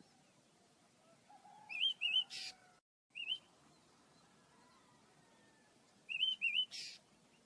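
Small pet birds chirping: two short bursts of quick looping chirps, each ending in a brief harsh rasping note, about two seconds in and again about six seconds in, with a single chirp between them.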